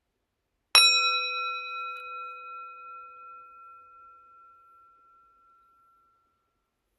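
A meditation bell struck once, just under a second in, its clear tone ringing on and slowly fading over about five seconds. It is the signal that the silent meditation begins.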